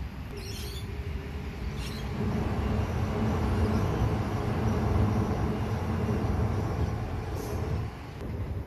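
Adelaide 3100-class diesel railcars converted to hybrid running past: a steady low rumble that grows louder about two seconds in and drops away sharply near the end. A few brief high squeaks come over it.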